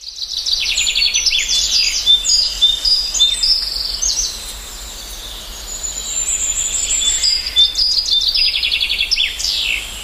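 Several songbirds chirping and trilling in quick, high calls, with a lull in the middle and a burst of rapid trills and falling whistles near the end.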